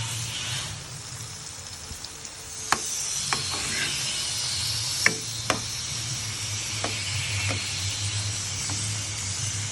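Pisang aroma (wrapped banana rolls) sizzling as they fry in hot oil, with several sharp taps of a utensil against the pan. The sizzle is weaker for the first couple of seconds and picks up about two and a half seconds in, over a steady low hum.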